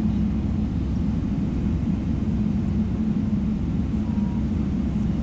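Steady cabin noise inside a Boeing 777-300ER: an even low rumble with a steady drone.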